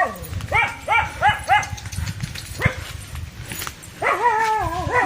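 Dogs barking: a run of four quick barks about half a second in, a single bark near the middle, and a longer, wavering bark near the end.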